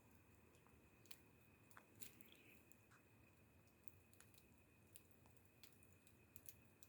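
A wood fire crackling faintly, with sparse irregular sharp pops and snaps, over a faint steady high-pitched tone.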